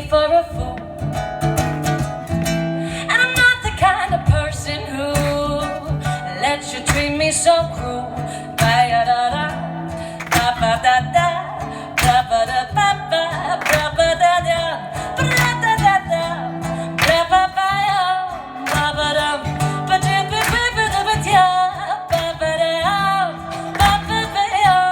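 A woman singing a folk song live to her own strummed baritone ukulele.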